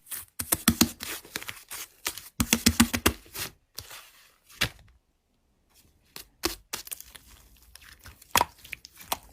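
Slime being pressed and pulled by hand: clusters of crackling clicks and small pops, with a brief pause about five seconds in.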